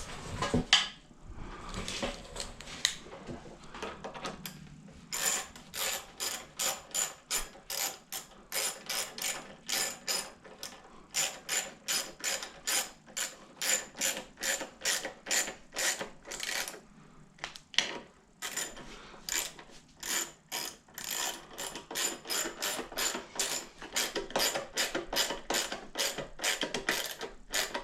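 Ratchet wrench clicking in rapid, even strokes, about two to three clicks a second with a short pause partway through, as a bolt on a Toro push mower's engine is tightened down to seal a part.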